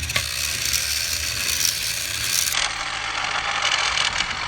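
Battery-powered TrackMaster toy engines running head-to-head on plastic track: a steady gear-motor whir with a rapid ratcheting rattle of gears and wheels.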